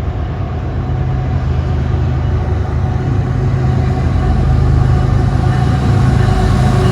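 Diesel locomotives of a CSX freight train approaching, their engines' low drone growing steadily louder.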